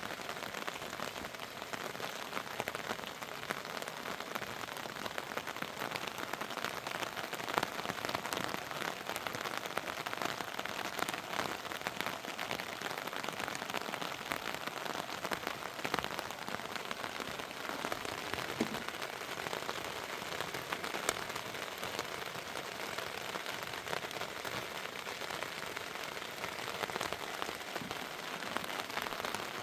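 Steady heavy rain, a dense patter of many small drop impacts.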